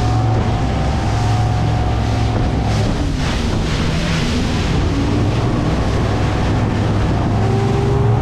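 Yamaha outboard motor running at speed, with wind on the microphone and the hull's wash rushing past; a louder surge of spray about three seconds in.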